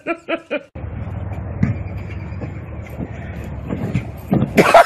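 A small dog barking in quick short yaps, then cut off by a steady low rumbling noise with a few faint knocks; about four and a half seconds in, a dog starts barking again in a rapid run of yaps.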